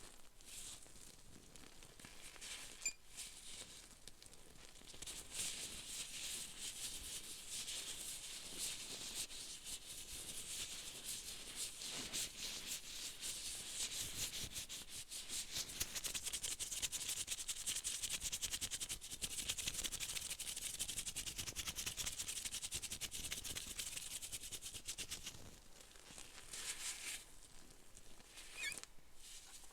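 Close-miked scratching and rubbing sounds, a dense stream of fine crackling ticks that builds up, holds, and thins out to a few single scrapes near the end.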